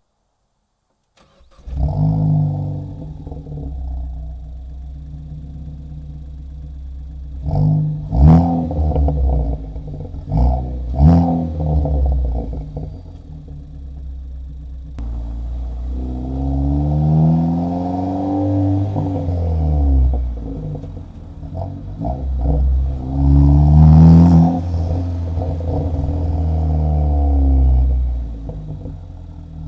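Car engine starting about a second and a half in, settling to an idle, then blipped sharply three times, followed by longer revs that rise and fall, picked up by microphones at the exhaust and in the engine bay.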